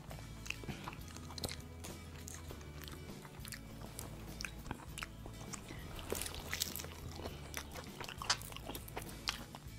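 Crisp fried chicken being bitten and chewed: many short, sharp crunches of the fried coating, the sharpest a little before the end, over soft background music.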